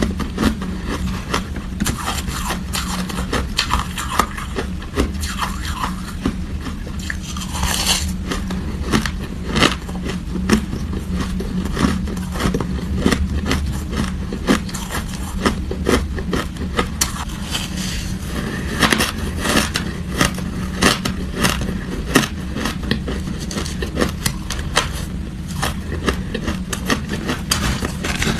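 Hard ice being bitten and chewed close to the microphone: a dense, irregular run of sharp, loud crunches and cracks with no pause.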